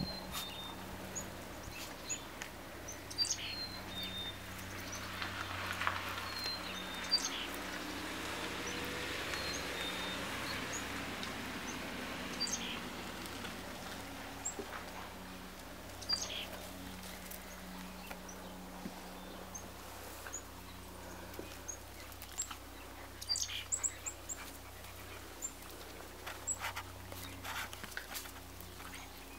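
Small birds chirping now and then: short, high, scattered notes over a quiet outdoor background. Light clicks and scuffs come in among them.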